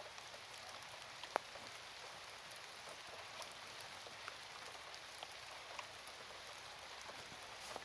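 Faint steady hiss with scattered light ticks, and one sharp click about a second and a half in.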